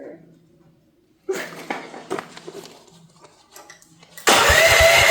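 Electric starter cranking the CFG MX15RX mini excavator's cold, choked gas engine, which does not catch. The cranking starts suddenly near the end: a steady starter whine over a fast, even run of compression pulses. Before it come a few scattered clicks and rattles.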